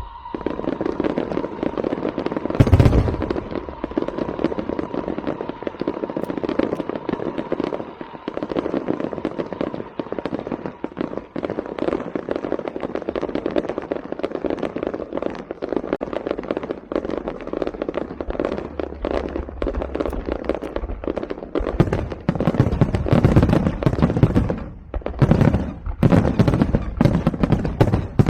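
String of firecrackers going off in a dense, rapid crackle, with a heavier bang a few seconds in. Near the end it breaks into louder, more separate bursts.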